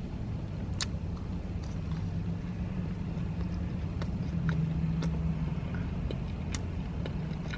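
A person chewing a cream-filled donut, with soft, sparse mouth clicks, over a steady low hum.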